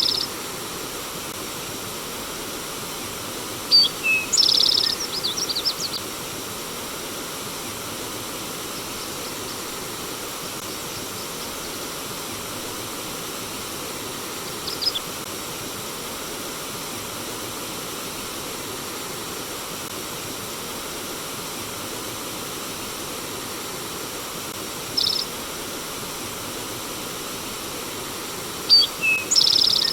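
Steady rush of flowing forest stream water, with a songbird breaking in now and then: a short trilled phrase about four seconds in, brief chirps near the middle and a little later, and the same trilled phrase again near the end.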